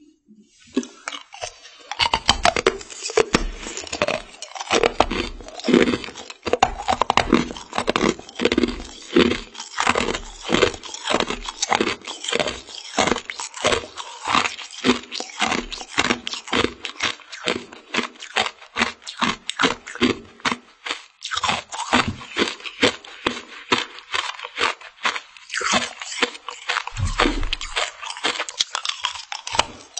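Biting and chewing frozen translucent mermaid-tail candy: a steady run of crisp crunches, two or three a second, starting about half a second in.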